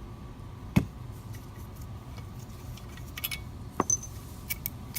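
Light metallic clinks and two sharp knocks of hand tools and engine parts being handled while the engine is taken apart.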